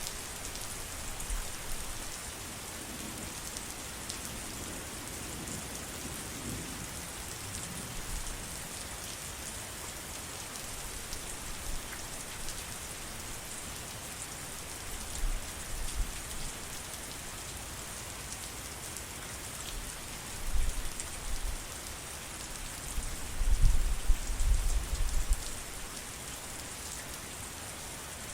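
Steady rain falling, an even hiss of drops on surfaces. Low rumbles swell up in the second half, the loudest near the end.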